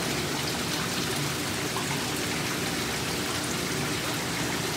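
Water running and splashing steadily, as in a bait shop's aerated live-bait tank while bait is being bagged.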